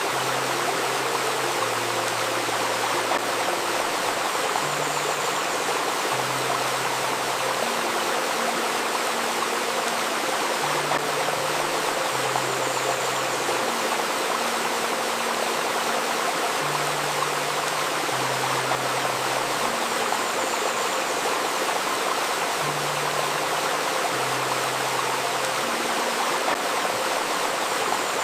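Steady babbling of a shallow river stream, overlaid with a faint steady 528 Hz tone and soft low held notes that repeat in a slow pattern about every six seconds.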